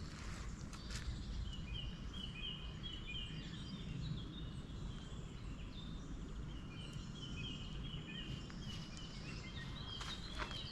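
Songbird singing a long run of quick, high chirps over a low, steady background rumble, with a few footsteps on the path at the start and again near the end.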